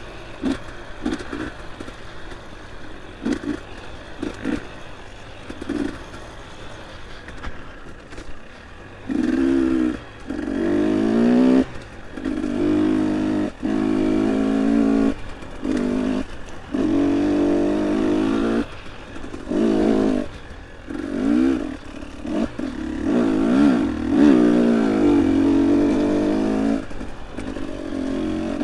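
Dirt bike engine under way. It is low and choppy with a few short knocks for the first several seconds. Then from about nine seconds in it revs hard in repeated throttle bursts, its pitch rising and falling, with brief drops in between.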